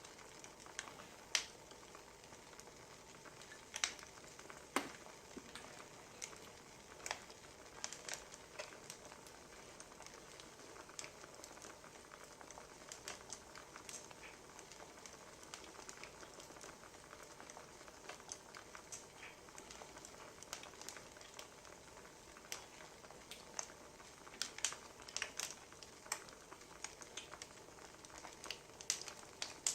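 Firewood burning with a soft hiss and irregular crackles and pops, coming more thickly near the end.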